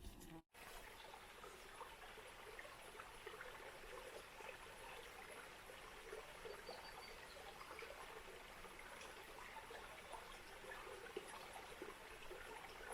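Small stream trickling and babbling faintly and steadily, beginning after a brief dropout about half a second in.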